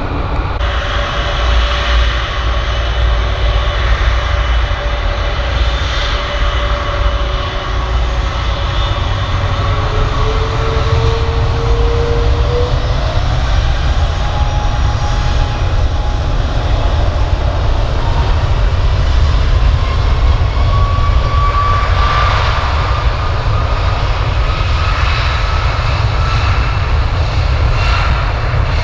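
A passenger aircraft's engines running with a steady deep rumble, and a whine over it that climbs steadily in pitch.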